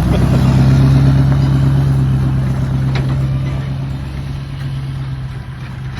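A vehicle engine running at a steady pitch, loudest about a second in and then slowly fading.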